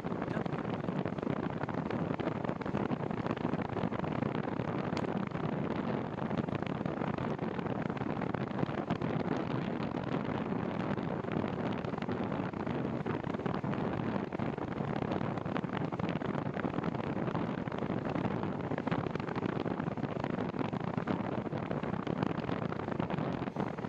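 Steady wind noise on the microphone of a cyclist riding into a cold, gusty wind, an even rushing hiss with no breaks.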